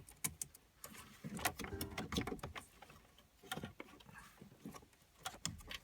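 Irregular plastic clicks and rattles of wiring-harness connectors being wiggled by hand behind a BMW CIC head unit, in a search for a loose connection that makes the car's audio cut in and out.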